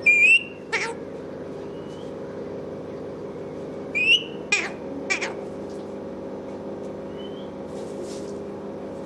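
Pet parrot giving short, sharp squawking calls with sliding pitch: one burst at the start and a cluster of three about four seconds in. A steady low hum runs underneath.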